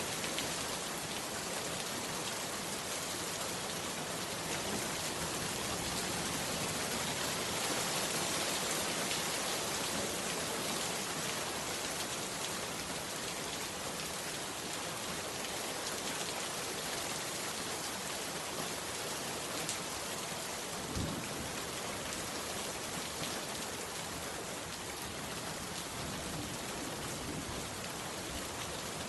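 Heavy rain falling steadily, a dense even patter of drops, with one brief low thump about two-thirds of the way through.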